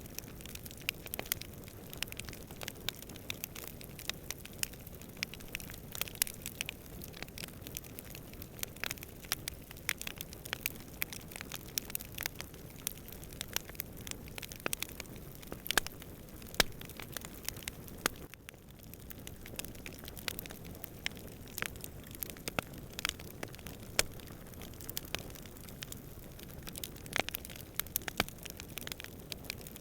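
Wood campfire crackling, with frequent irregular sharp pops and snaps over a steady low rumble of distant wind; the crackling thins briefly a little past halfway.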